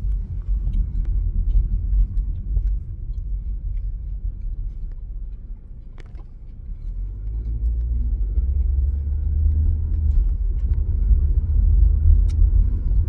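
Car cabin rumble from a car on the move: low road and engine noise that eases off about five seconds in, as the car slows, then grows louder again as it picks up speed.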